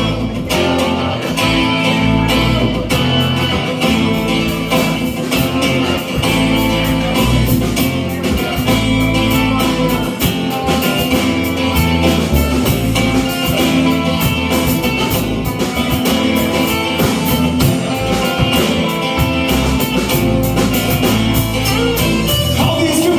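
A band playing an instrumental passage led by electric guitar, over bass and drums with a steady beat.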